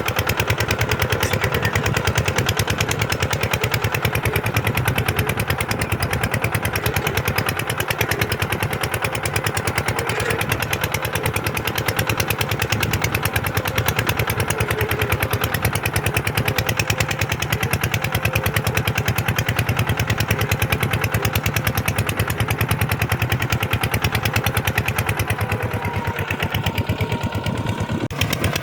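Kubota farm tractor's diesel engine running steadily, with a fast, even firing rhythm.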